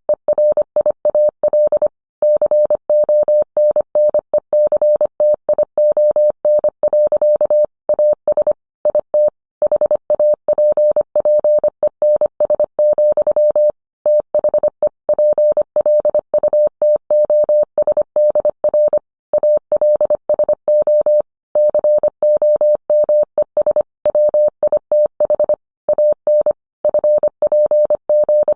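Morse code sent as a single steady mid-pitched beep, keyed on and off quickly in short and long elements, with brief pauses between groups.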